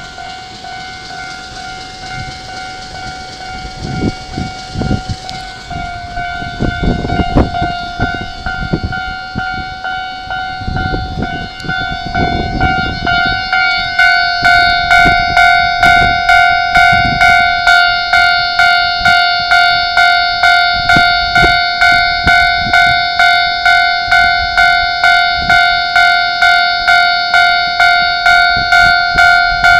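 A Keikyu Line train passes with rumbling wheel clatter, over the steady two-tone ring of a railway level-crossing alarm. After the train has gone, the alarm rings louder and pulses at a little over two strikes a second.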